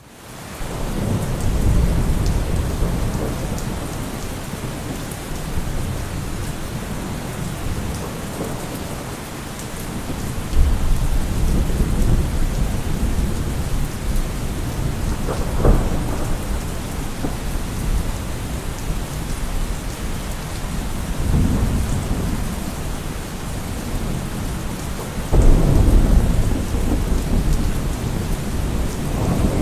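Thunderstorm: steady rain with thunder rumbling again and again, and sharper thunder cracks about ten, sixteen and twenty-five seconds in.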